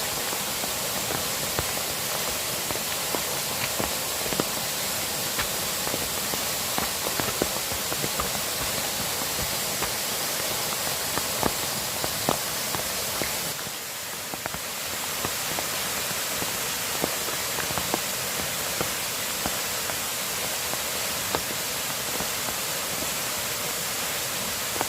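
Steady rushing water noise, with many small sharp ticks scattered irregularly through it and a brief dip in level about midway.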